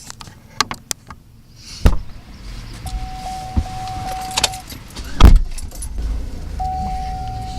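A car being got into: small clicks and keys, two car doors thudding shut, and a steady electronic chime from the dashboard sounding in two stretches. A low engine rumble builds after the second door shuts.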